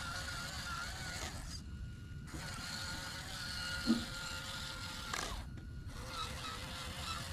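Kubota tractor at work: a steady low engine rumble under a wavering mechanical whine and creaking, with a short knock about four seconds in. The sound cuts out twice briefly.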